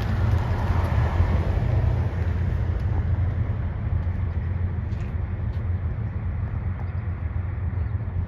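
Diesel locomotives leading a freight train running past, a steady low engine drone with rail noise that slowly fades, with a few faint clicks.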